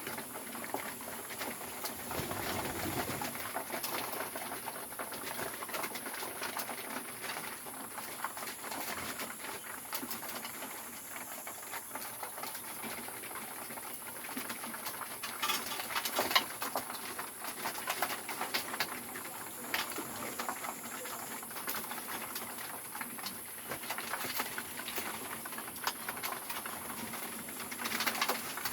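Pigeons cooing in a loft, with many scattered sharp clicks and taps throughout.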